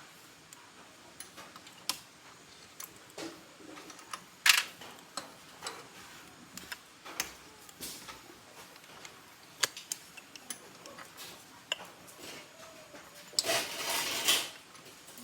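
Irregular clicks and clinks of hand tools on metal motorbike parts during engine work. One sharper clink comes about four and a half seconds in, and a longer rattling clatter about a second long comes near the end.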